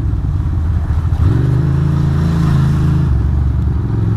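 Ducati Monster's V-twin engine running under way; about a second in the revs rise as the throttle opens, hold for a couple of seconds, then fall back as it eases off.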